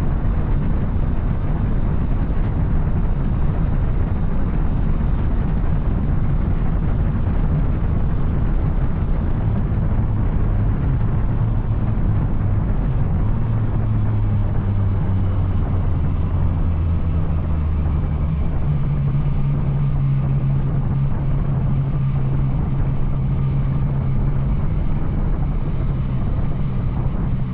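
Yamaha Tracer 900 motorcycle's inline three-cylinder engine running under way through an Arrow exhaust, with heavy wind rush. The engine note shifts several times and sits higher in the last third.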